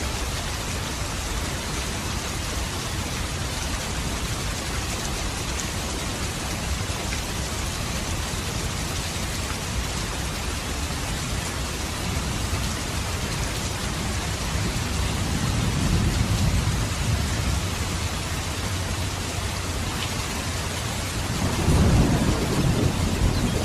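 Steady rain, with low rolls of thunder twice: once about two thirds through and again, louder, near the end.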